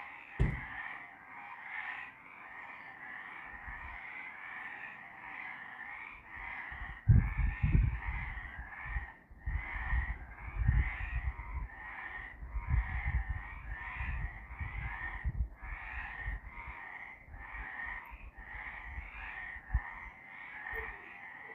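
Several frogs calling in a night chorus, a steady run of repeated croaking calls at about one and a half a second. A click about half a second in, and low rumbling thumps through the second half, the loudest at about a third of the way in.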